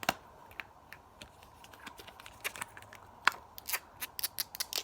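Quick, irregular sharp clicks and taps, sparse at first with one louder snap past the middle, then coming thick and fast near the end.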